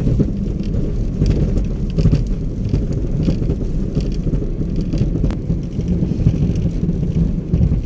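Vehicle driving, heard from inside: a loud, steady low rumble with scattered knocks and rattles throughout.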